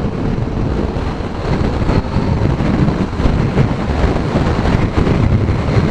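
Heavy wind buffeting the microphone on a moving Kawasaki Z900 in a strong wind, a loud, gusting rumble with the motorcycle running underneath it.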